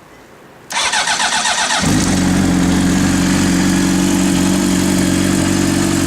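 2003 Honda CBR600RR's inline-four engine is cold-started: the electric starter cranks for about a second, then the engine catches and settles into a steady idle through aftermarket twin Arrow exhausts.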